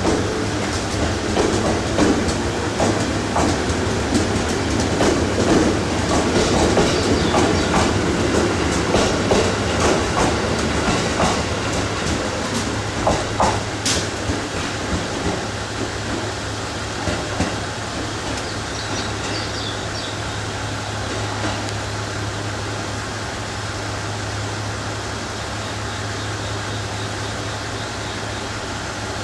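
A train of Sagami Line 205-500 series electric cars, towed by an EF64 locomotive, rolling slowly past with its wheels clicking and knocking over the rail joints. The clatter thins after the last car passes about halfway through and gives way to a quieter steady low hum as the train draws away.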